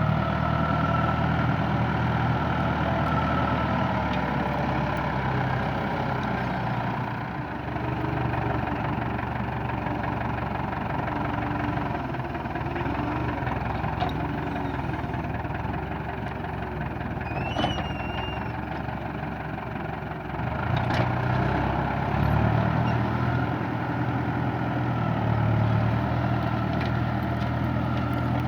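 Fendt tractor engine running steadily, working a plough. A brief high chirp sounds about two-thirds of the way through.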